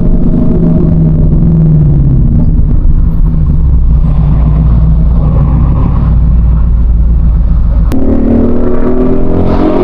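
2024 Ford Mustang GT's 5.0-litre V8 running as the car is driven, settling into a low steady drone. About eight seconds in there is a sharp click, and the engine note then climbs as the car accelerates.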